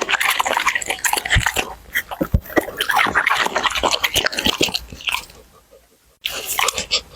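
Labrador chewing and crunching food close to the microphone, with rapid, irregular crunches. It pauses briefly about five seconds in, then resumes.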